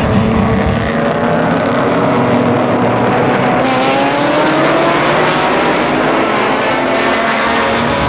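Corvette race car's V8 engine running hard on track, its pitch climbing steadily through the middle as it accelerates.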